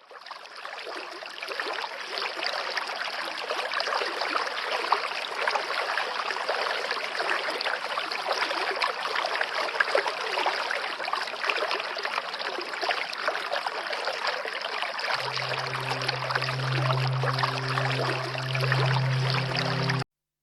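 Steady rush of flowing water, fading in over the first second or two. About three-quarters of the way through, low sustained music notes come in underneath it.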